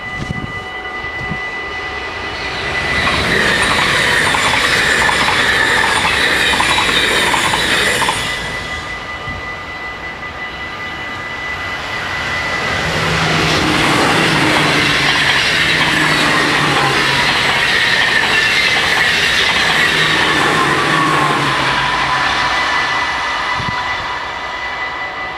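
Two electric passenger trains, a VIRM double-deck and an ICMm Koploper, pass over a level crossing one after the other: the first runs by for about six seconds, the second from about halfway through for about ten seconds, with wheel and rail noise. The crossing's warning bells ring steadily throughout.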